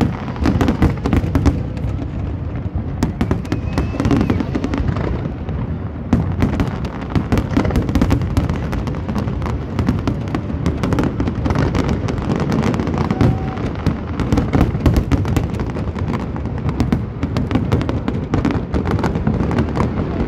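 Fireworks display in full barrage: aerial shells bursting in rapid, overlapping bangs and crackles without a break.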